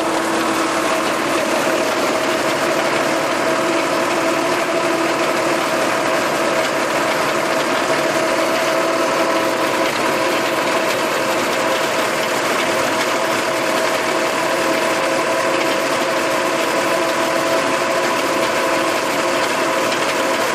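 Farm tractor engine running at a steady speed with an even, unchanging drone, working a rotary tiller.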